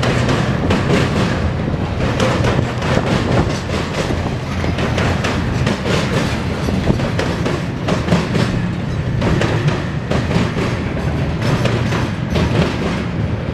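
Intermodal freight train's cars rolling past: a steady heavy rumble with the rapid clack of wheels over rail joints.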